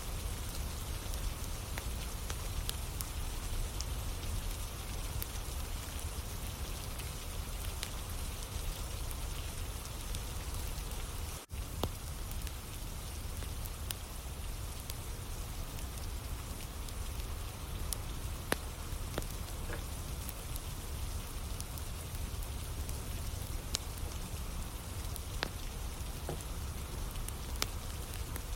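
Steady rain falling, mixed with a wood campfire burning, its scattered sharp crackles and pops standing out over the rain. The sound drops out for an instant a little before halfway.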